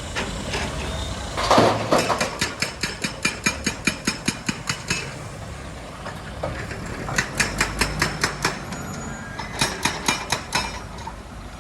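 Heavy rock-crushing machinery at work: three bursts of rapid, sharp knocks, about five a second, over a steady low engine rumble.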